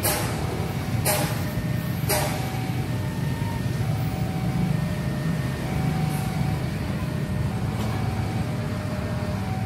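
Passenger train rumbling along the track as it moves away, with three sharp clacks about a second apart at the start, typical of wheels passing over rail joints.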